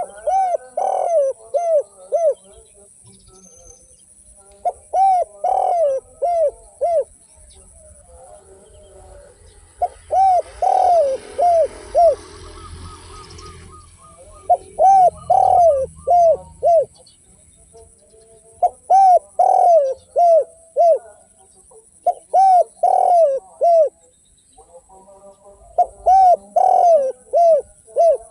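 Spotted dove (derkuku) singing its cooing song: seven phrases of four or five coos each, repeated about every four seconds. A few seconds of hiss and low rumble come in under the song about a third of the way through.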